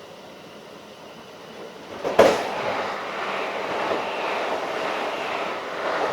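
Keikyu 1500 series field-chopper electric train running, heard from on board. A quiet steady rumble is broken about two seconds in by a sudden loud whoosh, and louder rushing noise follows for about four seconds.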